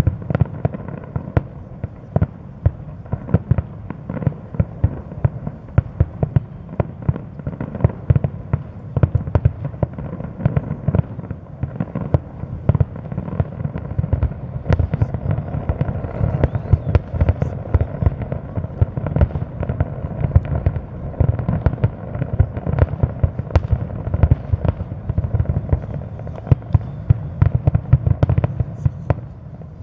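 Fireworks going off in a dense, rapid barrage of sharp bangs, several a second, with little let-up.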